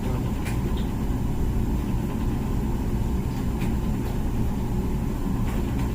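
Comfee dishwasher running mid-cycle: a steady low rumble of the wash pump and circulating water, with a few faint ticks.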